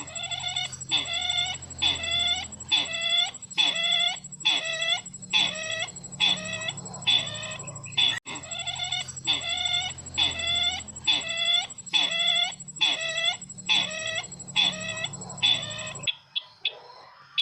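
A recorded lure call of the bird the bird-catchers call sisintar ladang, played back as a loop: the same call repeated evenly about one to a second and a half per second over a faint steady high whine. It cuts off suddenly near the end.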